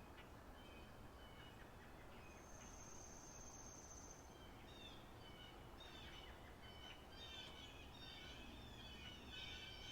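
Faint spring-meadow birdsong ambience: several small birds chirping, with one long high trill about two to four seconds in. The chirping grows busier in the second half.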